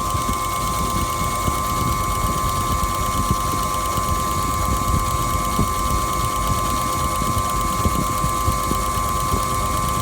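Washing machine running: a steady high motor whine over a low, uneven drum rumble with small irregular knocks.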